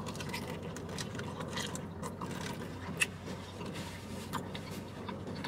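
A man chewing a mouthful of cheesesteak burrito close to the microphone, with many small wet clicks and the paper wrapper rustling, and one sharper click about three seconds in, over a steady low hum.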